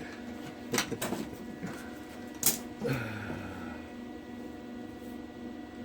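A few sharp knocks and clicks, the loudest about two and a half seconds in, over a steady hum.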